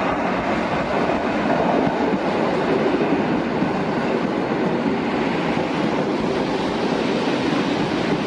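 Train moving along the track, a steady rolling noise of wheels on rails without a break.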